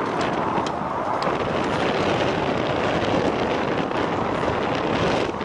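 Jet aircraft engine noise, a steady rush, mixed with strong gusty wind buffeting the microphone.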